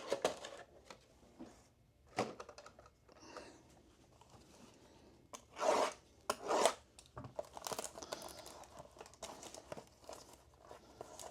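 Plastic shrink-wrap being torn off a sealed trading card box, with the wrapper crinkling. Two loud rips come about six seconds in, followed by steady crinkling.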